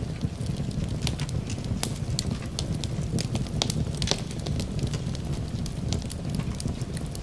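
Crackling fireplace: a log fire with a low steady rumble and frequent sharp, irregular pops and snaps, mixed with a soft rain-like hiss.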